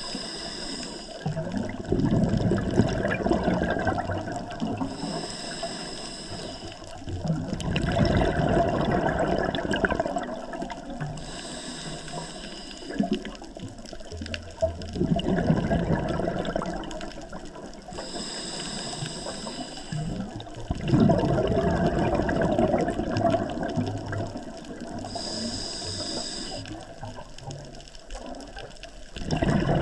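A scuba diver breathing through a regulator underwater. A short hiss on each inhale is followed by a louder rush of exhaled bubbles, in a steady cycle of about one breath every six to seven seconds, five times over.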